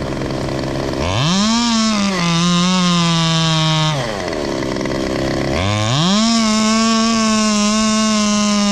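Chainsaw revved to full throttle about a second in, its pitch settling lower as it cuts. It eases off near four seconds and revs up again a couple of seconds later, holding high.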